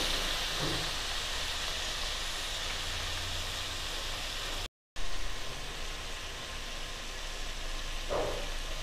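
Mint leaves and sliced onion frying in oil in a kadai over a medium flame, a steady soft sizzling hiss as they are left to wilt. The sound cuts out completely for a moment near the middle, then resumes slightly louder.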